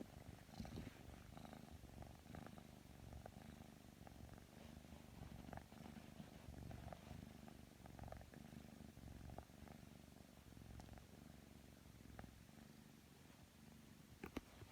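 Kitten purring steadily and faintly, with a few soft clicks.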